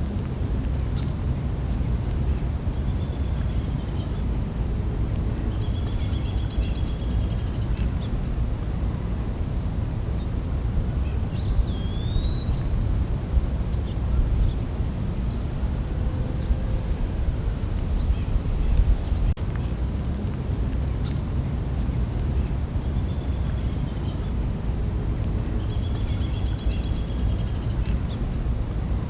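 Night forest insects: a steady high buzzing drone and rows of short, evenly repeated chirps, over a steady low rumble. High trilled calls come twice, a few seconds in and again near the end.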